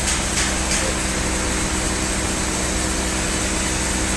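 Sawmill machinery running steadily: a constant engine-like hum with a few sharp clicks in the first second.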